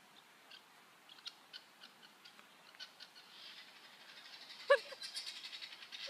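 An unidentified bird calling: a run of short, evenly spaced high chirps, then a fast, dry rattling chatter that grows louder, with one loud sharp call near the end.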